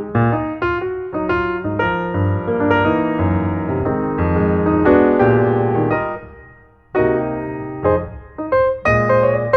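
Background piano music, a melody of struck notes over chords. It fades almost away about two-thirds of the way through, then starts again.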